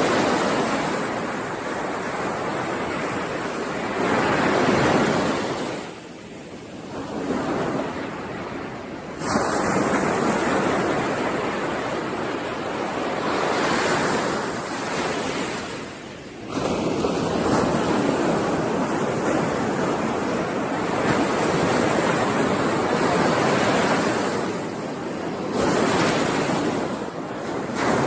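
Ocean surf washing onto a shore, a continuous rush that swells and ebbs, with quieter lulls between waves and fresh waves breaking in suddenly about nine and sixteen seconds in.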